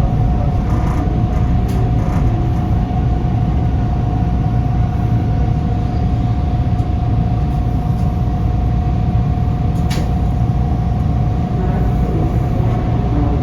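Toronto subway train heard from inside the car: a steady low rumble with a constant hum running through it, and a few sharp clicks about a second in, two seconds in and near ten seconds.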